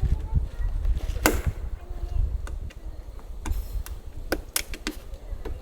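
A series of sharp knocks and clicks, the loudest about a second in, over a steady low rumble of wind on the microphone.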